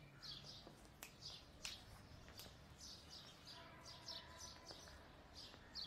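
Faint, repeated chirping of small birds, with a few light clicks.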